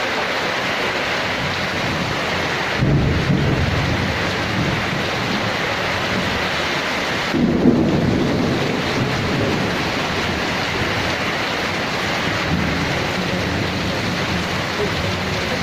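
Heavy rain falling steadily in a thunderstorm, with thunder rumbling in twice, about three and seven and a half seconds in, and a fainter rumble later.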